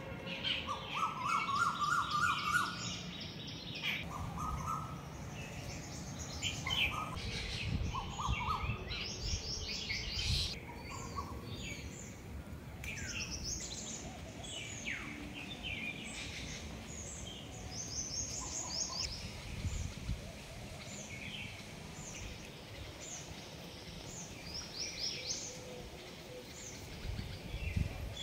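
Several birds chirping and calling, with short repeated trills and high chirps throughout, over a low rumble.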